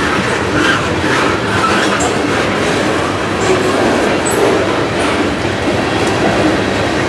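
Freight train of tank cars and boxcars rolling past at close range: a steady, loud run of steel wheels on rail, with a few brief high squeaks.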